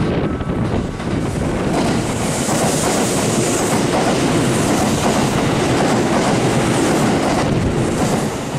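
Kintetsu 1233-series electric express train passing through a station at speed without stopping: a steady loud rush of wheel and running noise with rail-joint clatter, and a high hiss for a second or two early in the pass.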